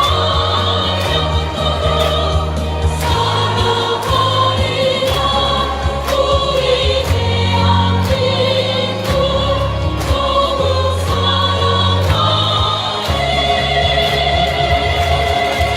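A choir of adult and children's voices singing together over an accompaniment with a bass line and a steady beat of about two strokes a second.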